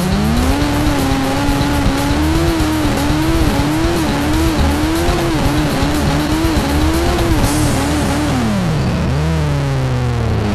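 Motorcycle engine held at high revs during a tyre burnout, its pitch wavering up and down; near the end the revs drop sharply and then climb again.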